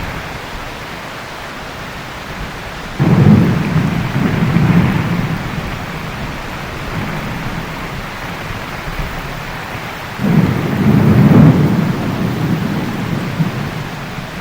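Heavy steady rain, with two claps of thunder, one about three seconds in and another about ten seconds in, each rumbling away over a few seconds.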